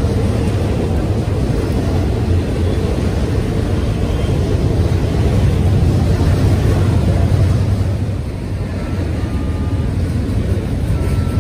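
Freight train rolling past, a loud steady rumble of wheels and cars that eases slightly about eight seconds in.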